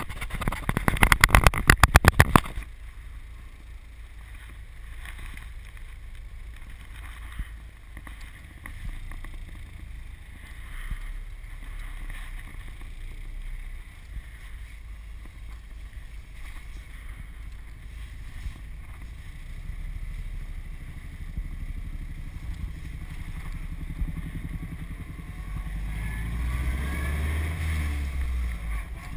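Heard from inside the cab, a 1929 Ford Model A coupe's hopped-up four-cylinder engine with twin Stromberg carburetors runs as a steady low rumble while driving. It opens with a couple of seconds of loud, rapid pulses. Near the end it grows louder with a rising whine.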